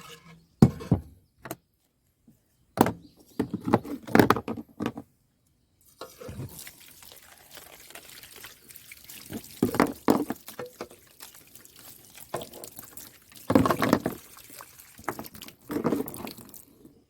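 Water splashing and running as a water-tank filter is rinsed clean, with sharp knocks and splashes in the first few seconds. A steady rush of water starts about six seconds in, with louder splashes over it.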